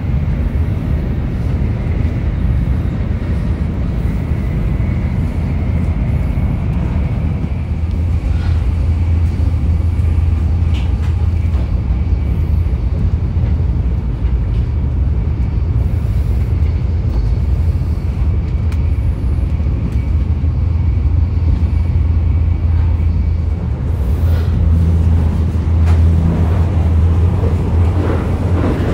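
Steady low rumble of a Nozomi Shinkansen bullet train running, heard from inside a passenger car.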